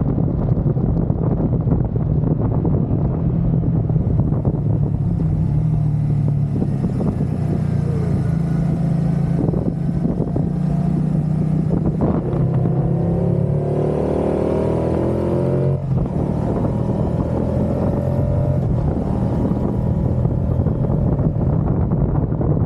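Moto Guzzi V100 motorcycle's transverse V-twin engine running at road speed, with gusty wind buffeting the microphone. About twelve seconds in the engine revs up, then drops sharply near sixteen seconds as it shifts gear, and settles back to a steady pull.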